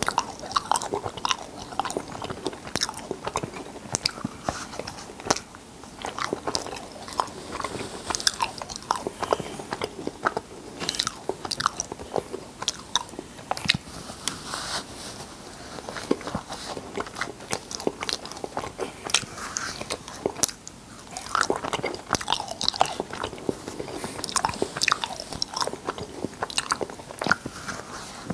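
Close-miked chewing of a mouthful of cotton candy, with many short clicks and smacks from the mouth.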